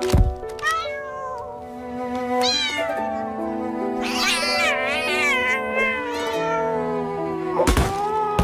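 Cat meowing several times, drawn-out cries that rise and fall in pitch, over background music with held notes. A loud sudden bang comes right at the start and another near the end.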